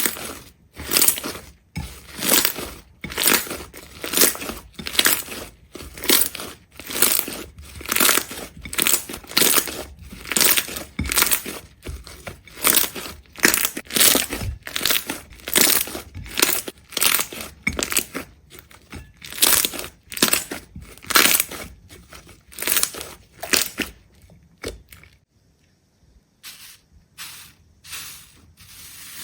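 Rapid, repeated crunching, about two crunches a second, thinning to a few scattered, quieter crunches near the end.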